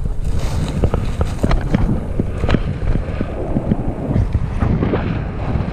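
Wind buffeting the microphone during an e-bike ride over a rough dirt trail. Many sharp clicks, knocks and rattles come from the bike jolting over the uneven ground, thickest in the first half.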